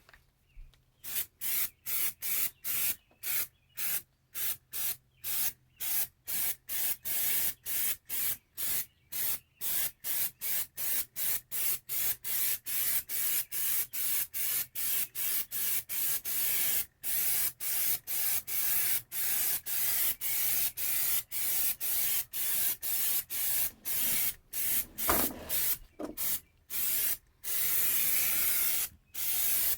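Aerosol can of rubberized undercoating spraying in short hissing bursts, about two a second. One brief knock about 25 seconds in.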